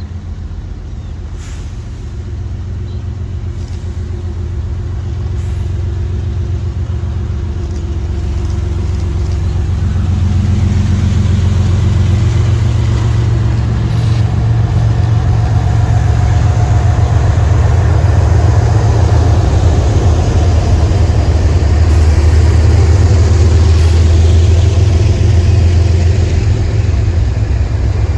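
Diesel locomotives of an intermodal freight train running, with a deep, steady engine drone that grows louder and louder as the train draws near.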